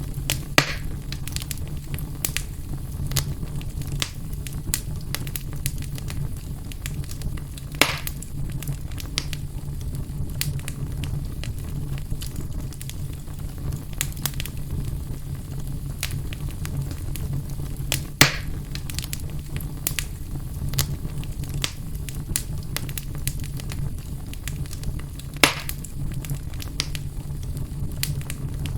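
Fire burning in a fireplace: steady small crackles over a low, even rumble, with four louder pops spread through the stretch.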